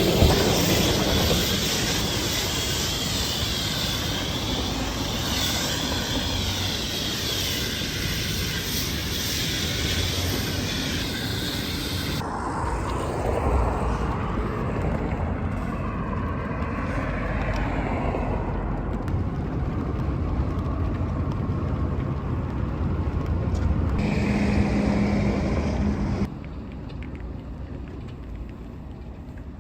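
Pressure washer jet spraying a truck: a loud, steady rushing hiss that changes abruptly several times and drops quieter near the end.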